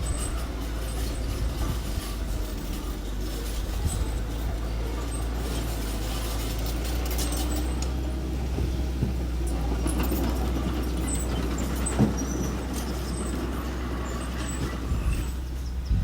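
Engine of a small earthmoving machine running steadily with a low hum, with scattered knocks and one sharp clank about twelve seconds in.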